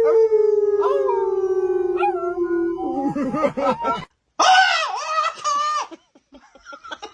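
A dog howling: one long howl that slides slowly down in pitch for about three seconds, then wavers and breaks off. After a brief silence comes a shorter wavering call, then a run of short ticks near the end.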